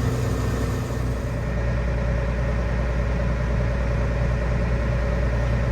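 Diesel engine of a heavy farm vehicle running steadily, a low even drone, with a steady whine that comes in about a second and a half in.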